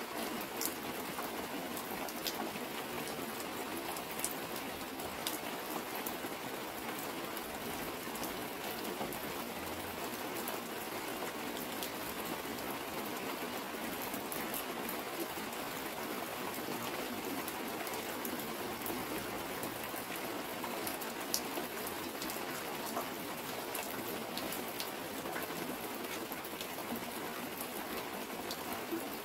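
Steady heavy rain falling on a garden and striking a clear plastic sheet, with scattered sharper drop ticks.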